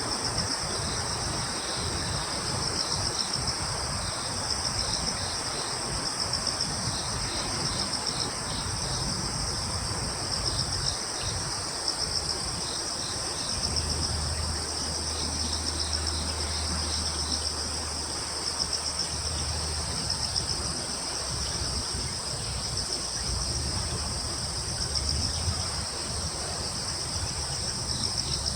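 A chorus of crickets chirping continuously at several pitches: a steady high trill, a pulsing one just below it, and another chirping in short repeated groups, over a soft outdoor hiss. A low rumble joins in for several seconds midway.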